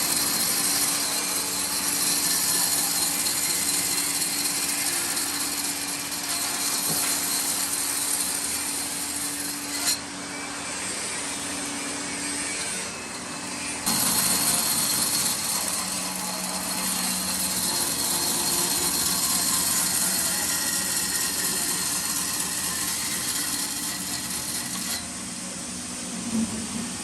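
A power tool cutting wood: a steady motor hum under a loud hiss of cutting, changing abruptly about ten, fourteen and twenty-five seconds in.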